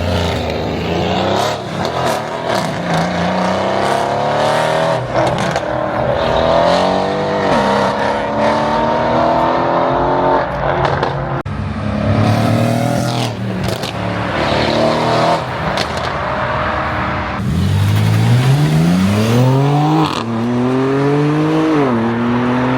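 Performance car engines revving and accelerating hard as cars pull away, the exhaust pitch climbing and falling several times. Near the end one car climbs steeply through the revs, dips briefly at a gear change, and climbs again.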